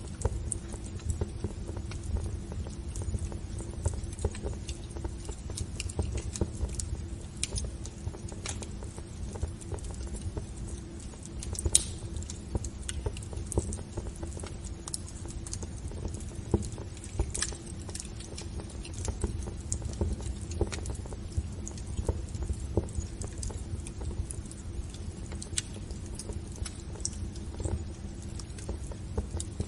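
Wood fire crackling in a fireplace: irregular sharp pops and crackles over a steady low rumble, with a couple of louder pops in the middle.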